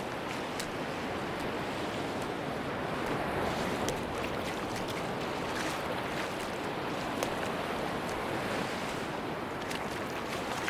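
Sea surf washing steadily on a beach, a continuous rushing wash with faint small clicks scattered through it.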